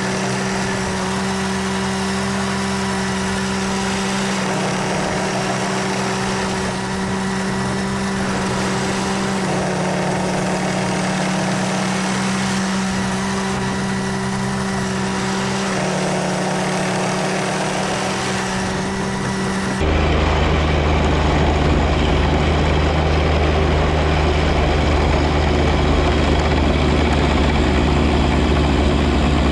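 John Deere 1025R compact tractor's three-cylinder diesel engine running steadily. About twenty seconds in, the sound changes abruptly to a lower, louder engine drone.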